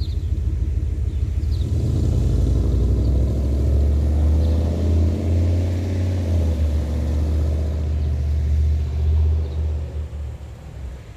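2005 Pontiac Bonneville GXP's 4.6 L 32-valve Northstar V8 running with a muffler-deleted exhaust, a steady low exhaust rumble. It grows louder and fuller about two seconds in, then fades near the end.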